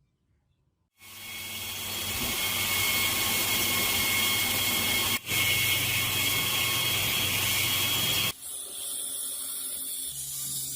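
A power tool starts suddenly about a second in and runs steadily with a high whine, broken off for an instant about four seconds later. About seven seconds in it gives way to a quieter, different mechanical noise.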